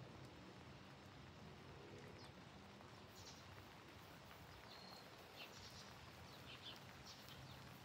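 Near silence: a faint steady background hum, with a few short, high bird chirps in the second half.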